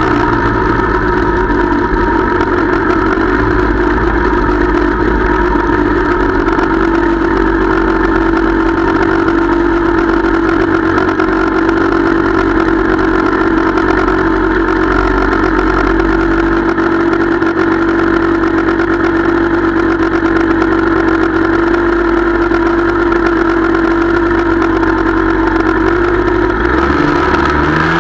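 Small motorbike engine running at a steady cruising speed, a continuous even drone whose note shifts slightly near the end.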